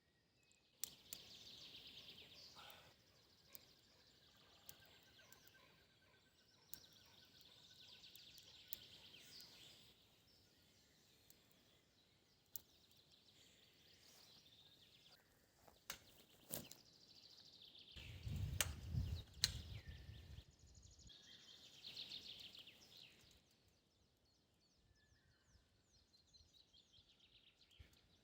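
Faint songbirds singing, several rapid trilling songs at intervals, with scattered small clicks and snaps. About eighteen seconds in comes a short run of low thuds and rumbles, the loudest sound here.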